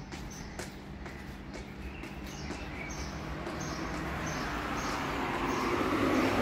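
A small bird chirping over and over, short high chirps about twice a second. Under it, a broad rushing noise swells steadily and is loudest near the end.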